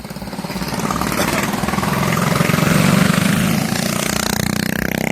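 Propeller airplane flying over, its engine drone swelling to a peak about three seconds in and then easing off.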